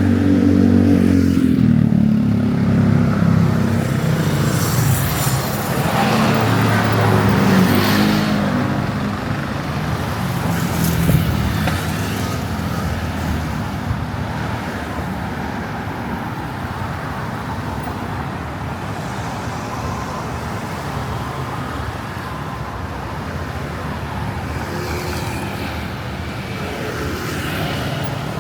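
Road traffic on a city street. A vehicle engine passes close in the first few seconds, its note falling, and another passes about six to eight seconds in. After that comes a steady traffic hum.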